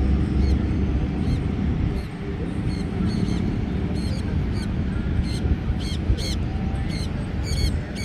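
Birds calling with short, high chirps, repeated irregularly, over a steady low rumble.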